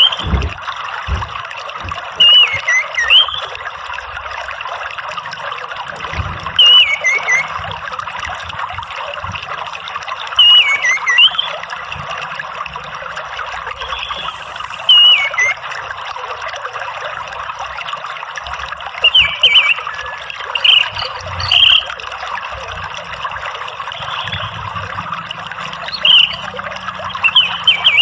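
Orange-headed thrush (anis merah) singing short, falling whistled phrases every few seconds over a steady trickle of running water.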